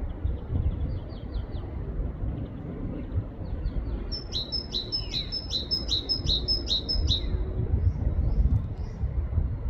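Great tit singing its two-note 'teacher-teacher' song: a fast run of about eight repeated high-low note pairs in the middle, with fainter bursts of the same song earlier on. A low rumble runs underneath.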